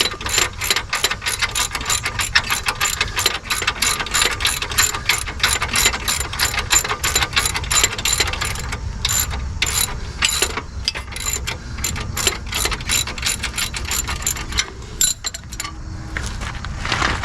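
Ratchet wrench clicking quickly and evenly, about five clicks a second, as a bolt is turned. The clicking thins out near the end.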